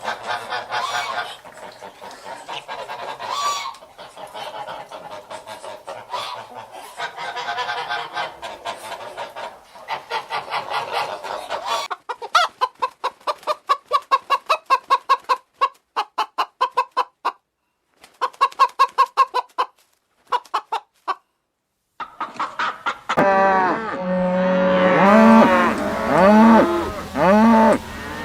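Chickens clucking and calling over one another, then a run of short rapid clucks with brief pauses. After a short silence, louder repeated arching calls from other farm fowl begin near the end.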